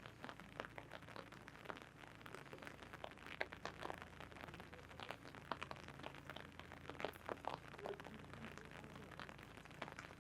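Raindrops tapping irregularly on an umbrella canopy overhead, many small sharp ticks over a low steady hum.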